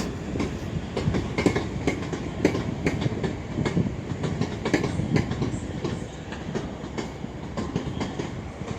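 Train wheels clattering over rail joints and points while a train runs past: a rumble with a run of uneven clicks that thins out a little near the end.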